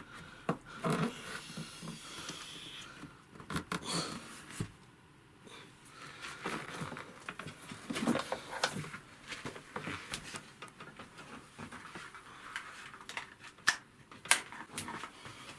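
Scattered knocks, clicks and rustling of objects being handled and moved about, with a couple of sharper clicks near the end.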